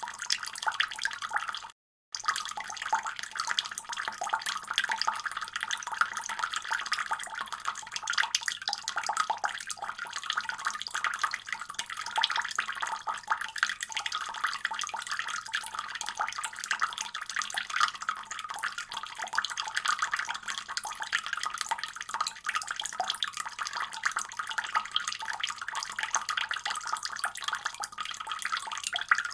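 Tap water running from a faucet in a steady stream, splashing with a dense hiss. The sound cuts out completely for a moment about two seconds in, then resumes unchanged.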